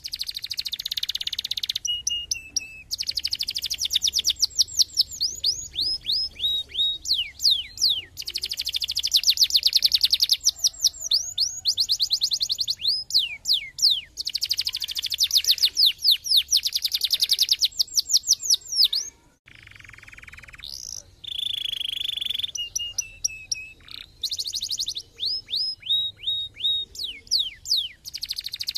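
Domestic canary singing a long song of rapid trills, each made of quickly repeated falling notes. About two-thirds of the way through there is a sudden short break, then a few seconds of different phrases before the fast trills return.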